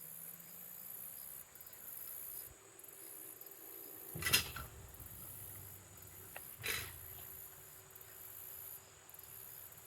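Insects trilling in a steady, very high-pitched drone broken by short regular gaps. Two brief louder noises come about four and six and a half seconds in.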